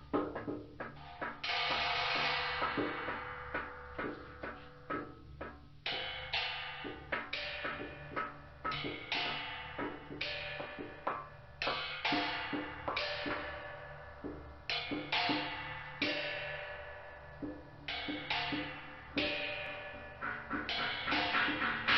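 Percussive soundtrack of struck metal, cymbal-like hits and clanks at an uneven pace, each stroke ringing on briefly, with a quicker run of strikes near the end.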